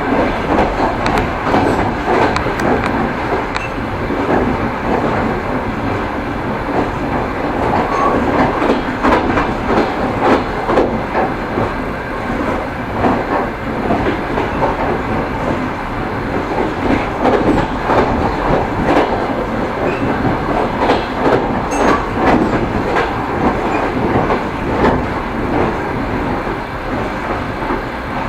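Train wheels clattering over rail joints, with many short clicks over the steady rumble of a moving train.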